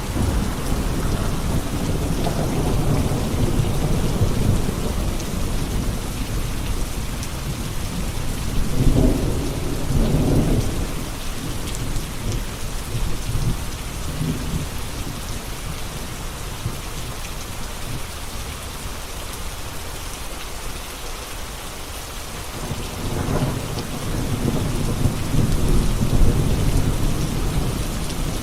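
Steady heavy rain falling on surfaces during a thunderstorm, with rolling thunder rumbling in three swells: from the start, again about nine seconds in, and building near the end.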